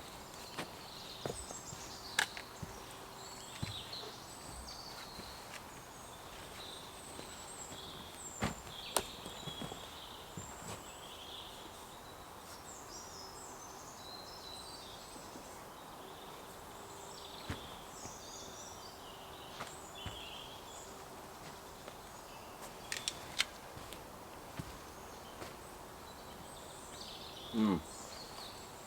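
Faint woodland birdsong, many small chirps and short phrases, over a quiet outdoor background, with a few scattered light clicks and knocks. Near the end comes a short, louder sound that falls steeply in pitch.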